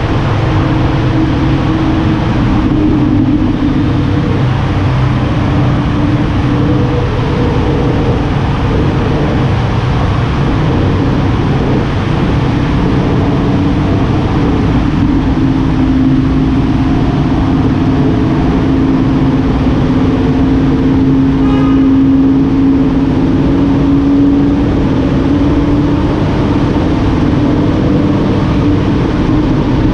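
Lamborghini Huracán's V10 engine with Fi Exhaust running steadily while driving at a fairly constant speed, under a heavy low rumble, its pitch shifting slightly a few times with no hard acceleration.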